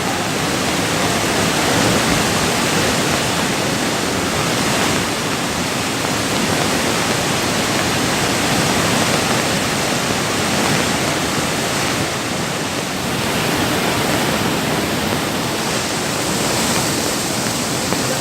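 Loud, steady rush of flowing water, even and unbroken throughout.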